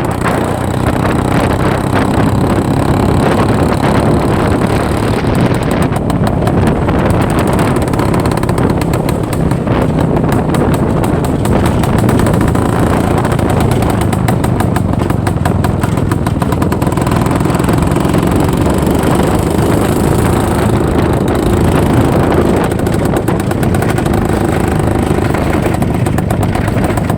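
IZh-49 motorcycle's single-cylinder two-stroke engine running on the move, a loud continuous engine note.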